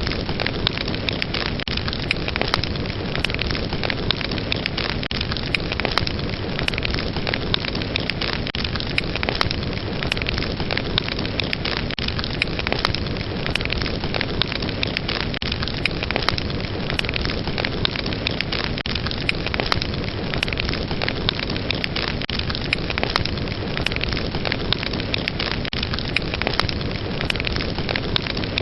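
Wood fire burning steadily: a dense hiss of flames with frequent sharp crackles and pops.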